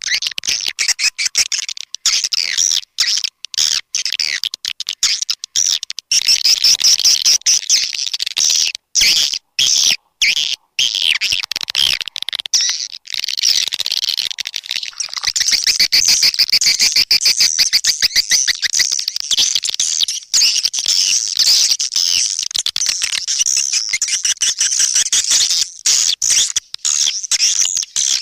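Swiftlets twittering in a dense, continuous chatter of rapid high chirps and clicks, a swiftlet calling sound (suara panggil walet) of the kind played to lure swiftlets into a nesting house.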